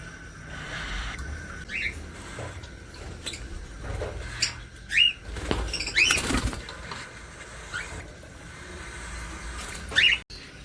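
Pet parrots giving short, rising chirps, about five spread across the few seconds. There is a burst of rustling or scuffling around the middle.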